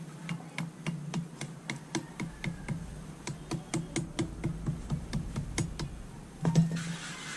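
A quick run of light taps, a few a second, then one louder knock near the end: a new fork oil seal being tapped down into a motorcycle fork tube, driven in with the old seal.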